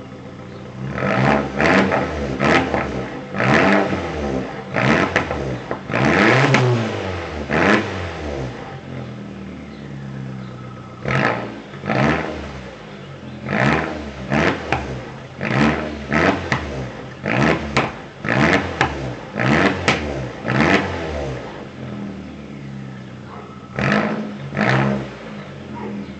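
2002 Volkswagen GTI's 1.8-litre turbocharged four-cylinder engine, through a straight-pipe 2.25-inch catback exhaust, revved in quick short blips in three runs. Between the runs it drops back to a steady idle.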